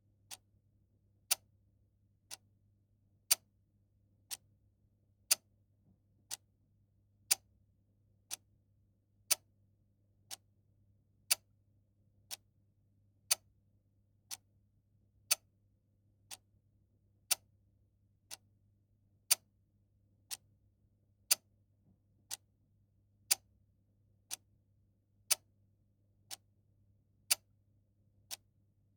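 A clock ticking steadily at one tick per second, louder and softer ticks alternating in a tick-tock pattern, over a faint low hum.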